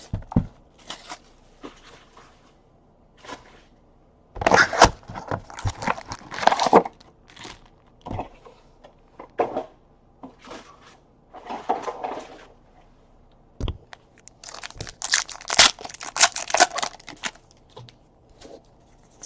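Plastic wrapping being torn and crumpled while a cardboard trading card box is opened, in irregular bursts of crinkling and tearing with short pauses between.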